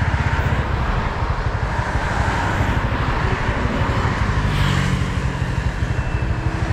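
A motor vehicle's engine running steadily with a fast low pulsing, under a rushing noise.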